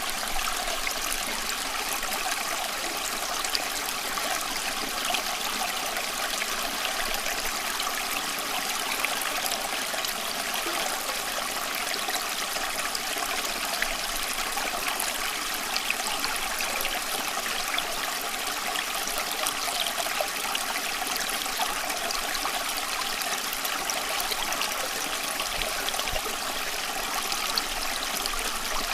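Steady running water, a constant trickling and babbling flow like a small stream.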